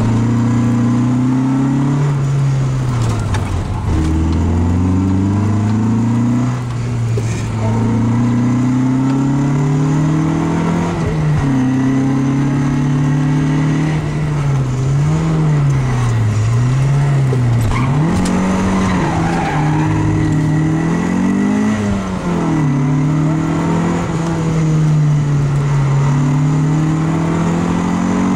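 Opel Kadett C rally car's four-cylinder engine heard from inside the cabin, revving up and dropping at each gear change, rising and falling over and over as it is driven hard through the gears.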